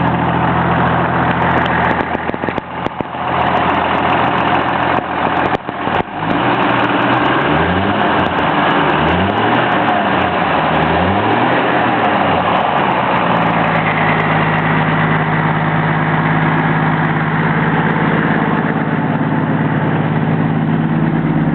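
Engine of a 1946 Hudson pickup running through a Thrush muffler with a low rumble. There are a few sharp clicks in the first several seconds. Midway it is revved up and down three times, then it settles into a steady idle.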